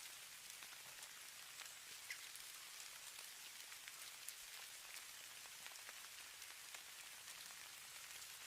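Faint, steady hiss of falling snow, with many small ticks of flakes and grains landing on a surface.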